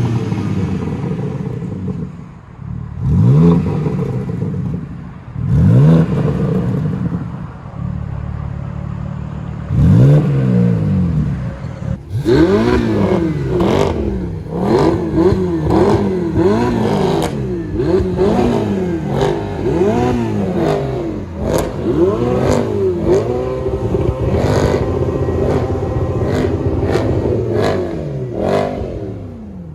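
Performance car engine being revved while standing: a few separate sharp throttle blips, then from about twelve seconds in a run of rapid revs rising and falling about once a second, with many sharp pops from the exhaust.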